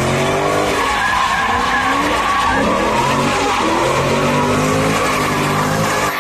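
A car engine revving up and down again and again while the tyres squeal steadily, as in a burnout or donuts.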